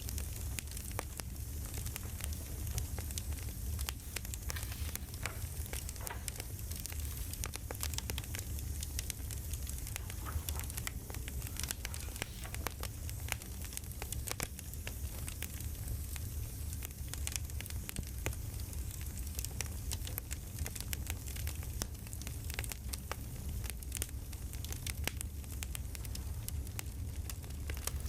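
Campfire crackling: a steady hiss with frequent small pops and snaps over a low rumble.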